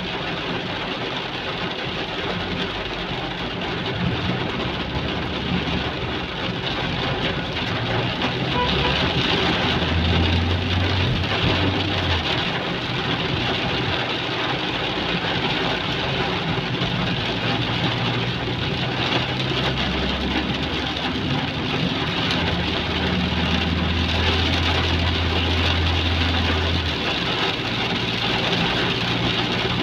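Heavy rain falling steadily, with the low hum of vehicle engines underneath, swelling at times.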